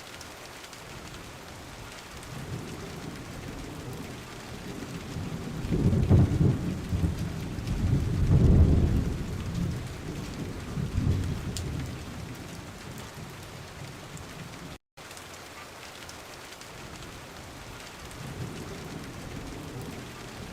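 Steady rain with rolling thunder: deep rumbles swell about six and eight seconds in, a weaker one follows, and the sound cuts out for an instant about fifteen seconds in before the rain carries on.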